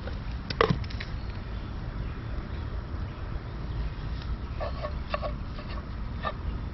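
Chickens clucking, a few short clucks in the second half, over a steady low background rumble. A single sharp knock comes about half a second in.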